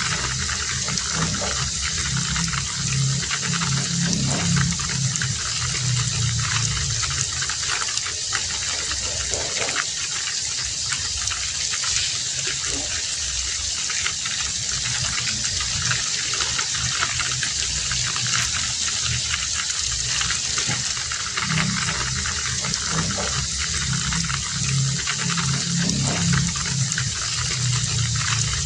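Heavy rain falling steadily, a dense even hiss of drops. A low sound joins it for several seconds at the start and again for several seconds near the end.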